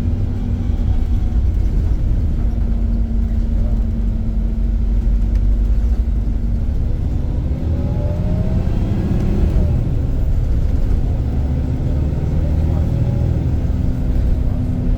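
Iveco Crossway LE city bus's diesel engine and drivetrain running under way, a steady low rumble with a constant hum, and a rising whine about eight seconds in as the bus picks up speed.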